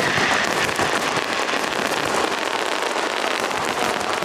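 Aerial fireworks crackling: a dense, continuous stream of many small rapid pops, with no single big bang standing out.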